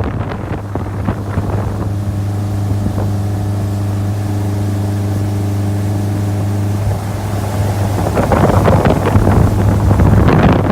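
1978 Hammond ski boat's engine running steadily under way. Wind buffets the microphone and grows louder over the last few seconds.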